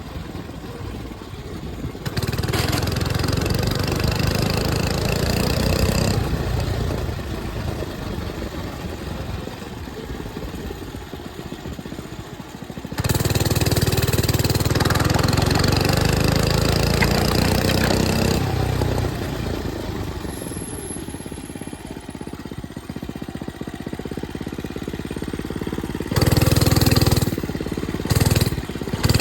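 A 105cc mini bike engine being ridden. The throttle is opened wide three times, about 2, 13 and 26 seconds in, and the engine rises sharply to high revs for a few seconds each time before easing back to a lower, quieter running speed. Near the end come a couple of short throttle blips.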